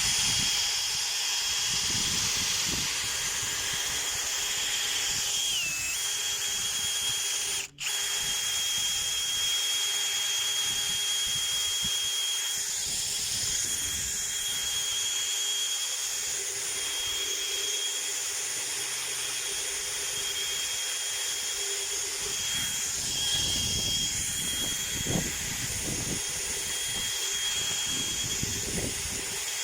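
DeWalt electric drill running steadily, with a continuous whirring hiss and a steady high whine; the sound briefly cuts out about eight seconds in.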